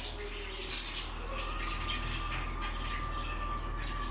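Pet birds chirping faintly, with scattered small clicks and a thin held note over a low steady hum.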